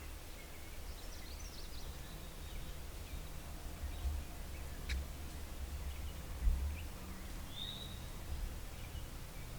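Outdoor field ambience: a low, gusting rumble on the microphone, with scattered short songbird chirps, one sharp click about five seconds in, and a brief bird call near the end.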